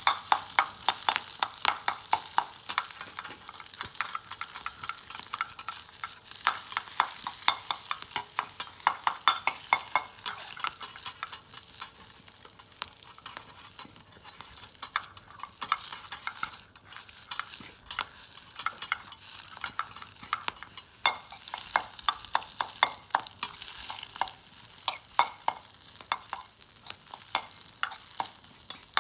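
Food stir-frying and sizzling in a Yokozawa Teppan wok, a metal utensil clacking and scraping against the pan several times a second in quick runs over a steady hiss.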